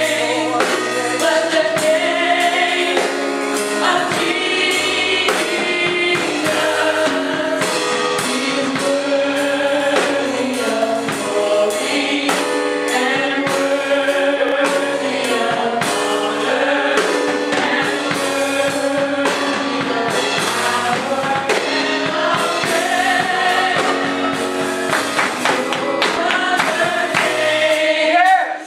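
Gospel choir singing with band accompaniment and a steady percussive beat.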